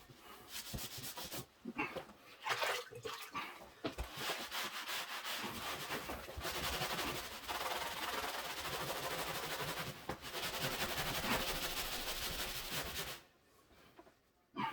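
Wet tile sponge scrubbing over a drywall joint-compound patch in repeated rasping strokes, washing out the patch's edges so they blend into the surrounding wall texture. The scrubbing stops near the end.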